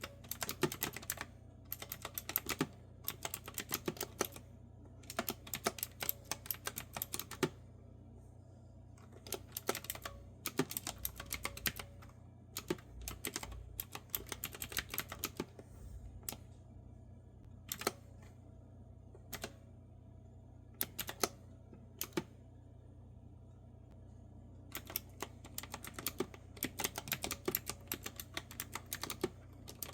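Typing on a clicky retro-style keyboard with round keys. Fast runs of keystrokes slow to scattered single key presses through the middle, then pick up into quick runs again near the end, over a faint steady low hum.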